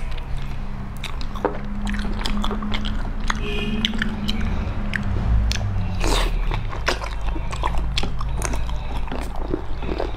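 Close-up eating sounds of a person chewing sticky braised fatty pork: wet mouth smacks and many short clicks, over a low steady hum.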